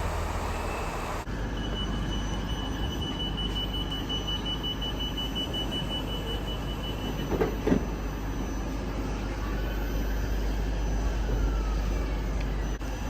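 Train at a station, with a steady low rumble and a thin high whine lasting several seconds, then a couple of thumps about seven seconds in.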